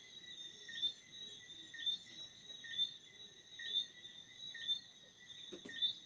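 Crickets chirping at night: a steady high trill with a louder chirp about once a second. A faint click comes near the end.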